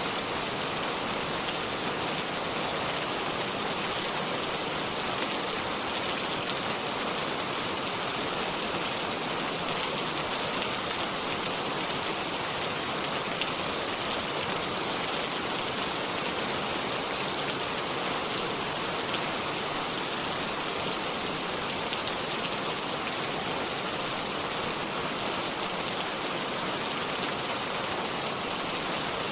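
Steady rainfall pattering on leaves and surfaces, an even hiss with fine drop ticks and no thunder.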